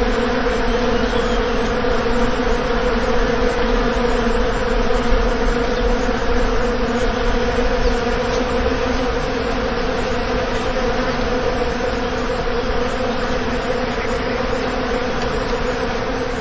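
Many bees buzzing together in one continuous, steady drone.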